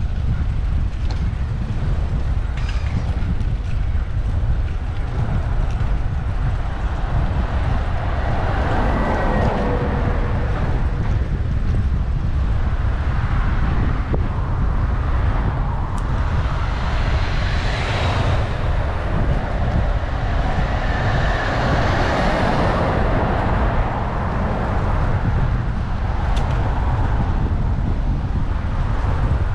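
Wind buffeting a bike-mounted action camera's microphone while riding in city traffic, with several vehicles passing close by.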